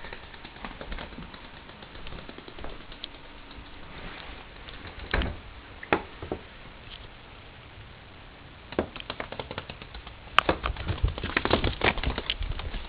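Light clicks and taps of a cockatiel's beak and feet on hard surfaces, scattered at first with two louder knocks about five and six seconds in, then a quick run of rapid tapping over the last few seconds.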